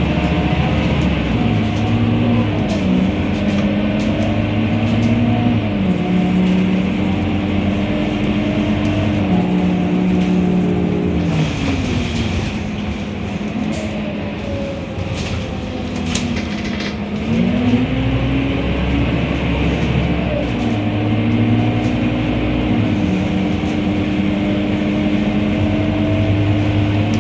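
Scania K230UB bus's diesel engine under way, its pitch climbing and then dropping back several times as it shifts gear. About halfway through the engine falls away as the bus slows, with a short hiss and some rattling, then it picks up again as the bus pulls off.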